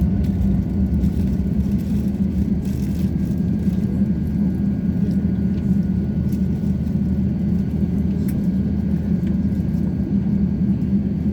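Steady low rumble inside the cabin of an Airbus A350-900 on the ground, from its Rolls-Royce Trent XWB engines at low power and the aircraft rolling, with a faint steady high tone above it. The level stays even throughout.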